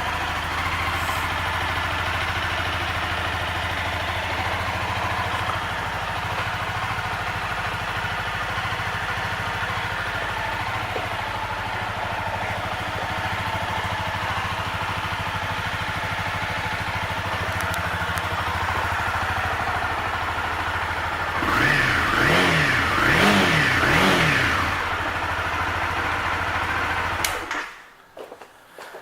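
Honda CBR300R's single-cylinder engine idling steadily, then blipped three times in quick succession, rising and falling in pitch, before it is switched off and cuts out a few seconds later.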